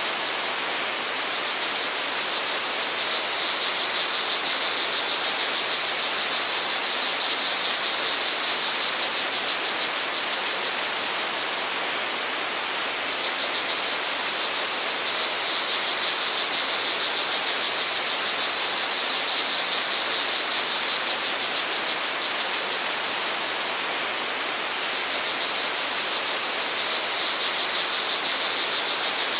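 Steady rushing water with crickets chirring in a high, fast-pulsing trill that fades in and out in long stretches.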